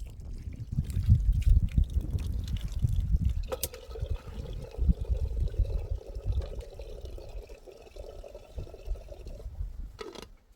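Liquid pouring steadily for about six seconds, starting a few seconds in, over a low uneven rumble.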